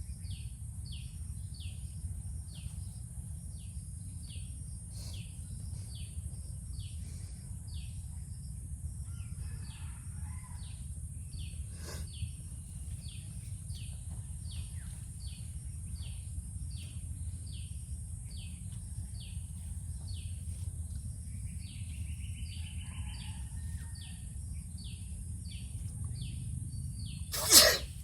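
A bird calling over and over in short falling notes, about two a second, over a steady low rumble and a steady high hiss. A loud sudden burst comes near the end.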